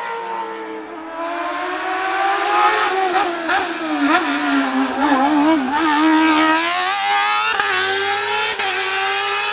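Hillclimb race car engine at racing revs. Its pitch falls over the first few seconds as the car slows for a bend, wavers quickly for a moment, then climbs steadily as it accelerates away.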